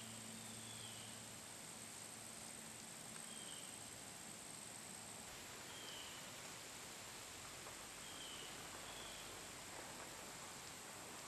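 Faint rural outdoor ambience: a steady high insect drone over a soft hiss, with short, falling bird chirps every few seconds.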